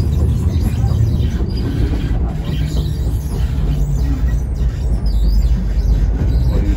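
Train running on the line: a loud, steady low rumble.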